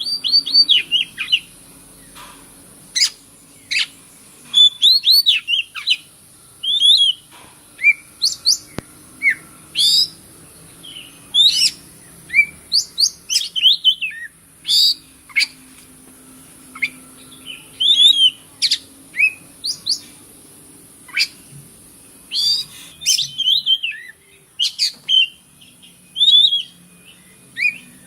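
Oriental magpie-robin singing: quick phrases of varied short whistles, chirps and sweeping notes, separated by brief pauses, over a steady high hiss.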